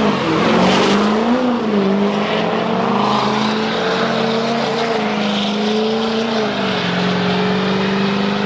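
Diesel drag trucks' engines running at a steady, loud pitch, with a brief rise in revs about a second in and a slight drop a little past halfway.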